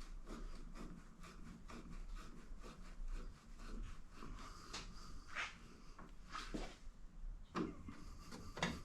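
Old plastic interior trim piece being handled and pushed into place: faint, irregular taps, clicks and rubbing, with a few sharper clicks near the end.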